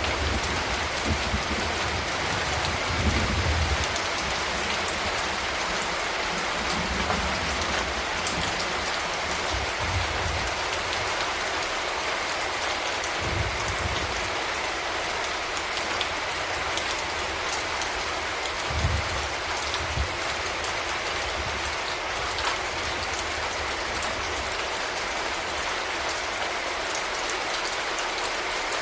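Steady rain falling as a constant, even hiss, with a few brief low rumbles underneath.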